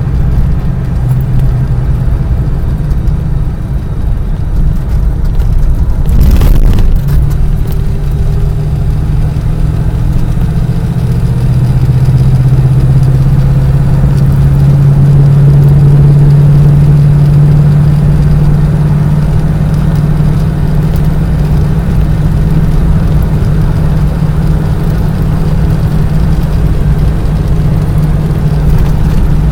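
Car engine running with a steady low drone that grows a little louder in the middle, and a brief noisy burst about six seconds in.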